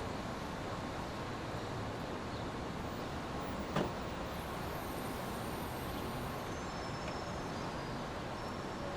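Steady brown noise: an even, unbroken rushing hiss, with one short click about four seconds in.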